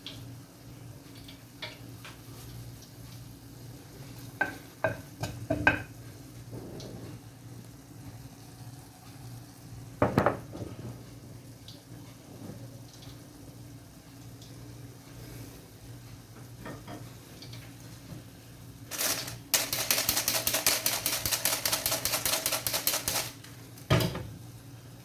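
Kitchen utensil work over a steady low hum: scattered clinks and knocks, a louder knock about ten seconds in, then a utensil beating rapidly and evenly in a bowl for about four seconds, followed by one more knock.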